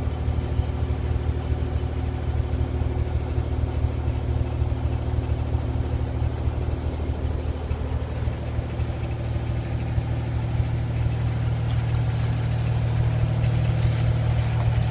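The 1999 Kenworth W900's Cummins N14 diesel engine idling steadily, heard from inside the cab as a low, even drone that grows slightly louder near the end.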